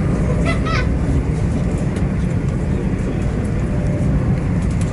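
A train running at the platform, a loud steady low rumble, with a brief high chirp about half a second in.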